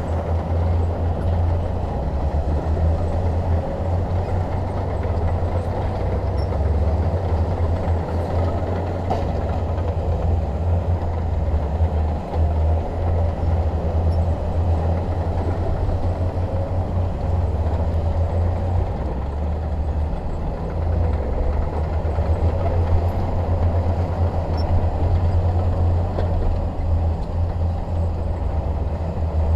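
Shantui DH17 bulldozer's diesel engine running steadily at work, a deep low rumble that rises and dips slightly in level.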